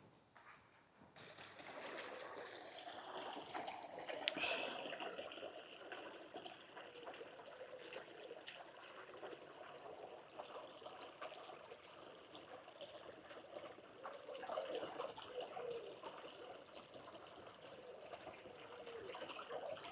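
Water trickling, a steady babble of running water that starts about a second in.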